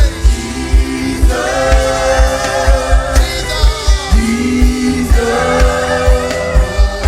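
Gospel worship music: a choir singing with a band, over a steady bass-drum beat of about two beats a second.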